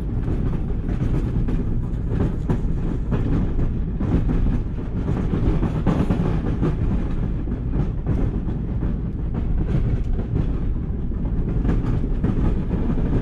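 Snowplow vehicle running with a steady low rumble while plowing, with irregular clicks and rattles from a chain dragging along with it.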